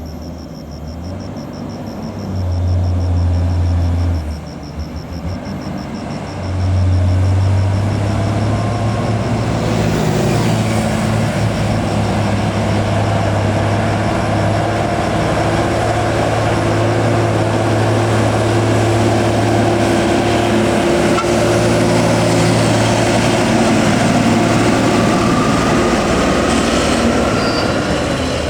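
Heavy diesel truck engines labouring up a steep grade at crawling pace: a low, steady drone that swells about six seconds in and holds as the trucks pass. A high, rapid pulsing sound runs over the first ten seconds or so.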